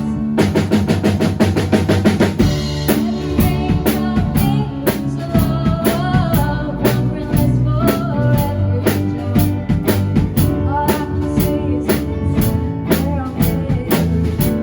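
A band playing with drum kit, bass and guitar, the drums loudest: a rapid run of drum hits in the first couple of seconds, then a steady beat with a melodic lead line wavering above it in the middle.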